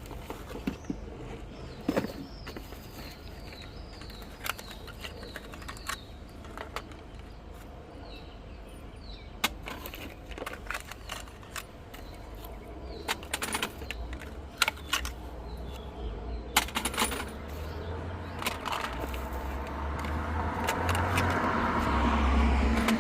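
Scattered light metallic clinks and clicks of hand tools and small engine parts being handled. A short run of about eight quick, high, falling chirps comes a few seconds in. A low rumble builds steadily louder over the last several seconds, like a vehicle running nearby.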